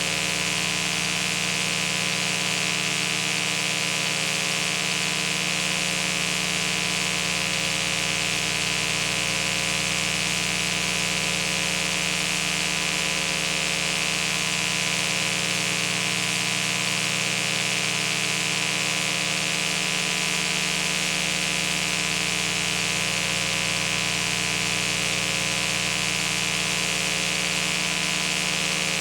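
Steady hiss with a constant electrical hum underneath, unchanging throughout, with no other sound.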